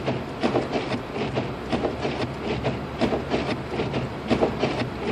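Inside the cabin of a 2006 Lexus IS250 AWD driving slowly through deep snow: a steady low hum from the road and engine, with irregular clicks and knocks several times a second.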